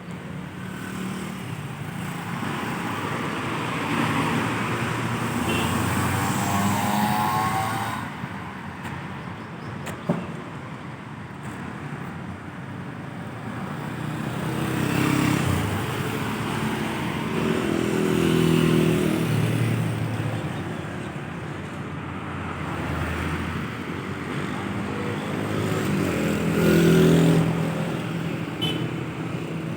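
Road traffic: motor vehicle engines passing and accelerating, the sound swelling and fading several times, with a single sharp click about ten seconds in.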